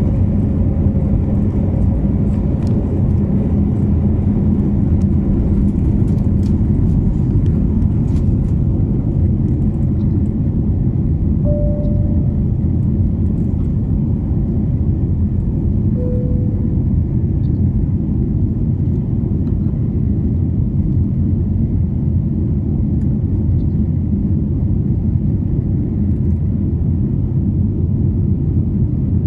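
Cabin noise of an Airbus A330 in flight: a steady, loud, low rumble of engines and airflow, with a low hum that fades after the first few seconds. Two brief faint tones sound near the middle.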